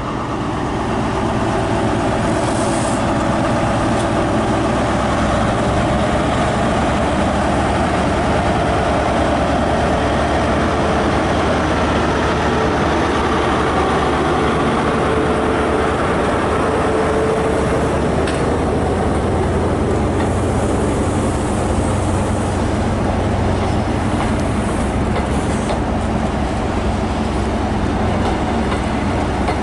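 Diesel passenger train running in the station: a steady engine drone with rail and wheel noise.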